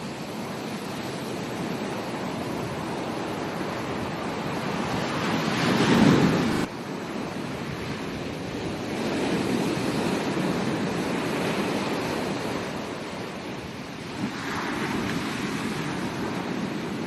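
Ocean waves breaking on a beach: the surf swells and washes in several times. The loudest wave comes about six seconds in and cuts off abruptly.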